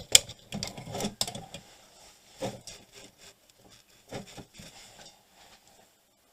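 Irregular scraping, rubbing and tapping of a hand tool working on a circuit board's copper tracks. The sharpest clicks come in the first second or so, and the sounds thin out near the end.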